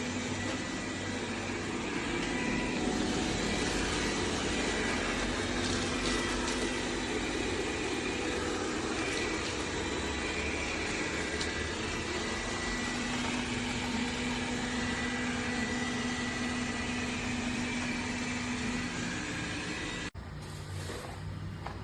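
Dreame D20 Pro Plus robot vacuum running: a steady whirring noise with a constant low hum and a thin high whine. It cuts off abruptly near the end.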